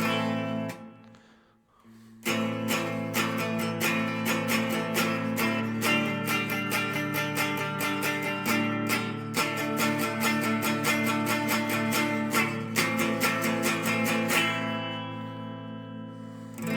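Strummed Epiphone guitar playing a song's instrumental intro. A chord rings and is stopped, there is a short pause, and then steady, fast strumming runs for about twelve seconds before the last chord is left to ring out and fade.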